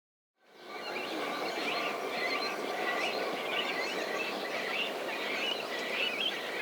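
Oriental reed warbler calling: a run of short, scratchy chirps repeating over a steady background hiss, fading in about half a second in.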